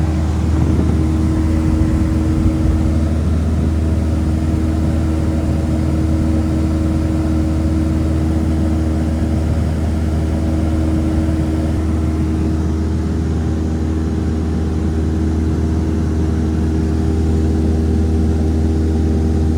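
A vehicle engine running steadily: a constant low drone that holds at one pitch throughout.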